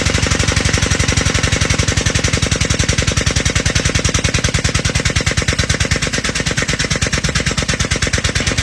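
Air-over-hydraulic truck jack running, its air-driven pump chattering with a fast, even pulse of well over ten beats a second as it lifts a big truck.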